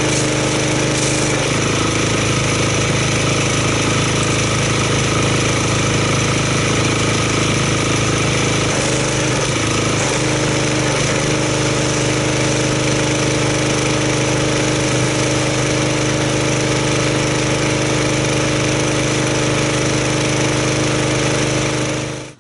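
Gas-engine pressure washer running steadily while foam is sprayed through an MTM foam cannon, the engine note shifting slightly a couple of times under changing load. The sound cuts off suddenly near the end.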